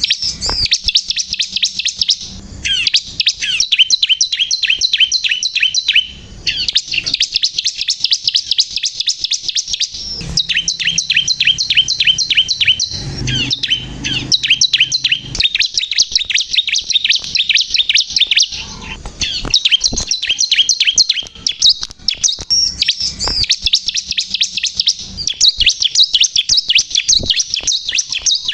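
Bar-winged prinia (ciblek kristal) singing: long runs of rapid, high, repeated chirps with brief pauses between phrases.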